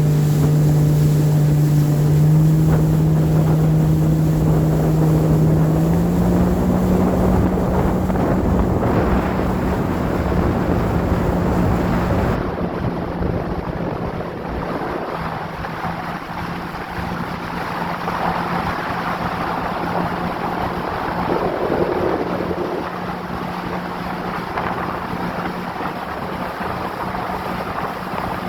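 Jet ski engine running steadily at speed, its pitch stepping up about six seconds in, over the rush of water and wind on the microphone.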